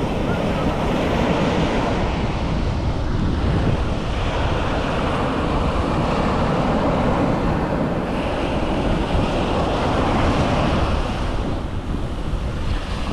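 Pacific Ocean surf breaking and washing up the beach, a continuous rushing that swells and eases, with wind buffeting the microphone.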